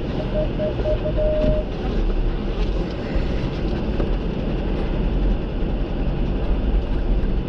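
Jeep being driven on a rough gravel forest road: a steady rumble of engine and tyres with scattered light rattles. Near the start, a short run of evenly spaced beeps ends in one longer beep about a second and a half in.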